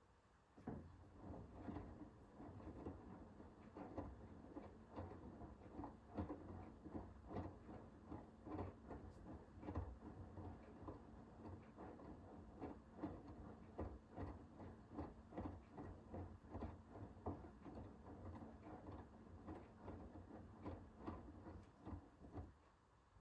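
Hoover H-WASH 500 washing machine drum turning a wash load: a low motor hum with repeated soft thuds and splashes as the laundry tumbles. It starts a moment in and stops near the end as the drum pauses between turns.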